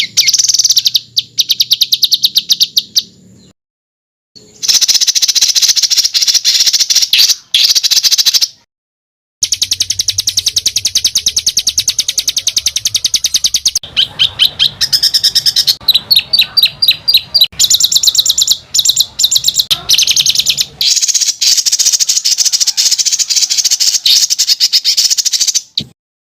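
Songbird giving harsh, tightly rolled trills, high rattling notes repeated very fast in long runs, with a stretch of sliding notes partway through. The trills break off abruptly twice, at about four and nine seconds in. This is a masteran tutor song of coarse rapid rolls, used to teach competition songbirds.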